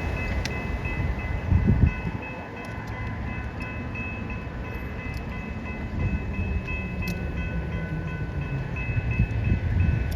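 Level crossing bells ringing in a rapid, even repeat, with the low rumble of a train passing over the crossing.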